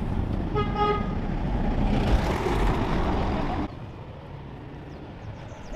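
A motor vehicle running close by, with a short horn toot about a second in. The engine and road noise cut off abruptly about two-thirds of the way through.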